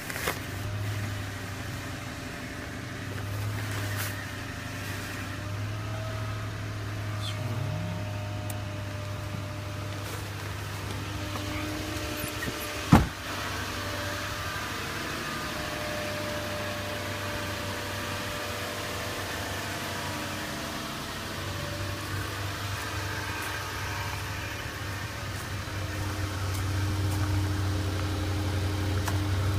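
2005 Toyota Tundra engine idling just after a cold start below freezing, a steady low hum. A single sharp click sounds about 13 seconds in, and the engine gets a little louder near the end.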